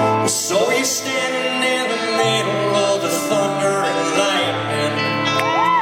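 Live country band playing the song, with held chords over a steady bass; a wavering voice comes in near the end.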